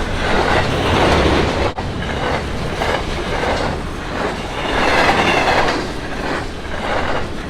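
A train rolling past, its wheels clattering over the rails, with a momentary break in the sound about two seconds in.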